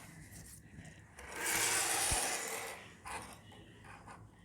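A rubbing, scraping sound of something drawn across a surface, lasting under two seconds a little over a second in, followed by a fainter short scrape.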